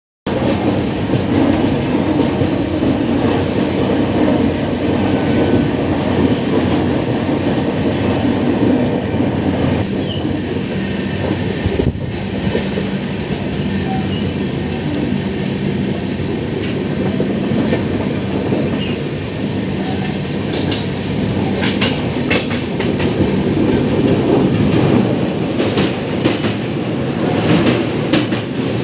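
Passenger train running at speed, heard from inside a coach at an open door: a steady rumble and clatter of wheels on the rails. In the last several seconds the clatter gets sharper, with many quick clicks, as the coach comes onto a steel truss bridge.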